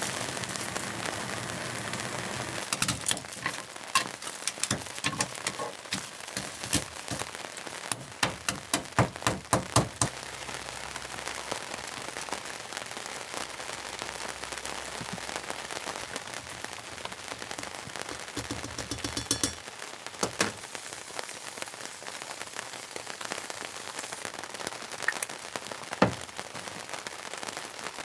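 Steady rain hissing, with irregular sharp taps of heavy drops landing on a hard surface. The taps come thick and fast in the first ten seconds, then only now and then, with one loud tap near the end.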